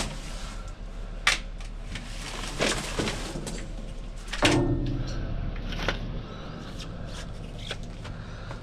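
Scrap metal being loaded: pieces clanking and knocking as they are dropped onto a pile, several separate strikes, the loudest about four and a half seconds in with a short metallic ring.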